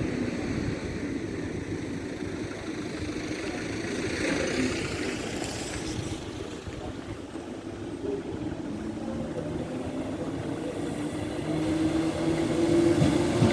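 Road vehicle engines running and idling, with a steady hum that grows louder near the end as a train draws near.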